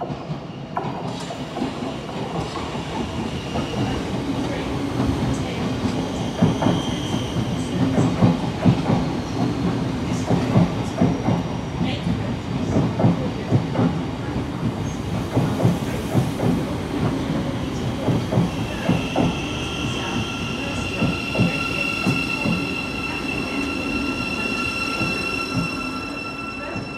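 Thameslink Class 700 electric train running through the platform: a rumble with a dense clatter of wheels over the rail joints, loudest in the middle. A steady high-pitched whine starts about two-thirds of the way in and holds.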